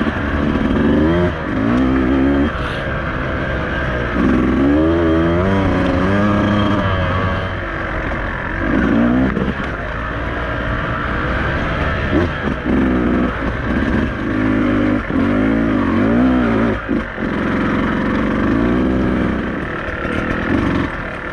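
Beta 200RR two-stroke enduro motorcycle engine being ridden along a dirt trail, its revs rising and falling again and again with the throttle.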